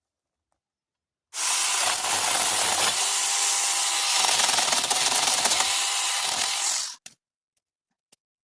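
Handheld electric garden cutting tool running and cutting into woody branches for about five and a half seconds, starting and stopping abruptly, followed by a couple of small clicks.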